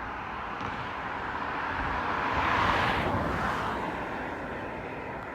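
Jet airliner passing, its engine rush swelling to a peak about halfway through and then fading, with a thin steady whine staying on as it moves away.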